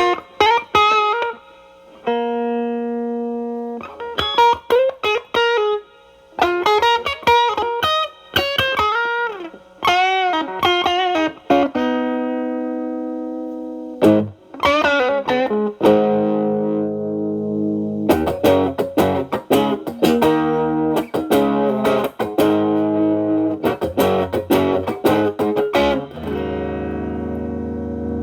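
Electric guitar: a Telecaster with alnico single-coil pickups, played through an MXR Distortion+ at minimum distortion stacked into a Boss SD-1 set as a clean boost (level at max, drive at min), into a Marshall Valvestate amp's clean channel. It plays single-note licks with string bends, then from about halfway switches to rhythmically strummed chords.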